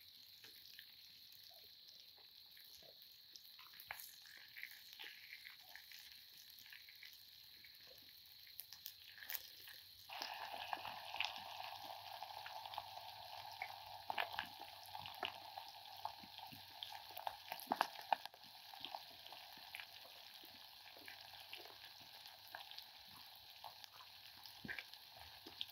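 Food frying in hot oil, a faint sizzle with scattered pops and crackles. The sizzle grows louder about ten seconds in, then eases off again.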